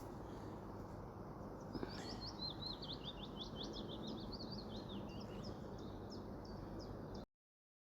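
A songbird singing a quick run of high, rapidly repeated chirping notes for a few seconds over steady outdoor background noise. The sound cuts out to dead silence near the end.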